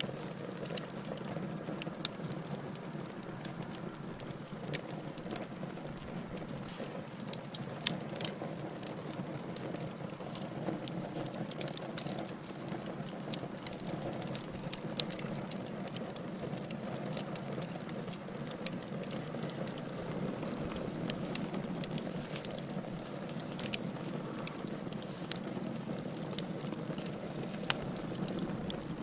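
Wood fire crackling in a fireplace: a steady low rush of flames with irregular sharp pops and snaps scattered throughout.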